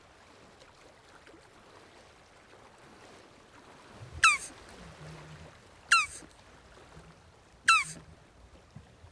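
Jabuti tortoise calling: three short, high, squeaky calls, each falling in pitch, about a second and a half apart, starting about four seconds in.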